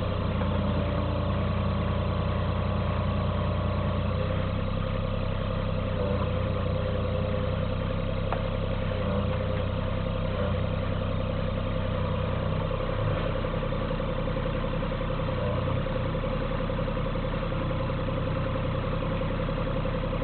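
Cat 302.5 mini excavator's diesel engine running steadily while its hydraulics work the arm and bucket for digging.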